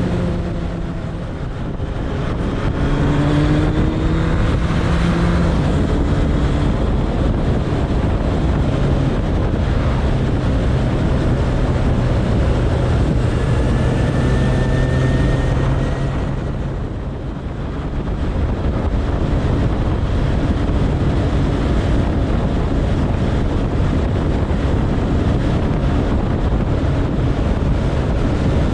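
Suzuki Bandit 1200's inline-four engine running at road speed, with heavy wind noise on the microphone. The engine note and loudness dip briefly twice, shortly after the start and about two-thirds of the way through, then settle back to a steady drone.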